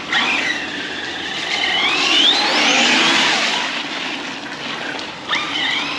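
Arrma Big Rock 6S RC monster truck's brushless electric motor whining under throttle. Its pitch climbs as it speeds up over the first few seconds, then falls off, and a fresh burst of throttle near the end sends it rising again.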